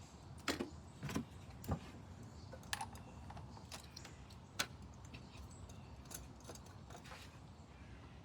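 Scattered light clicks and taps of hand tools being handled at the engine, several in the first five seconds, over a faint steady background.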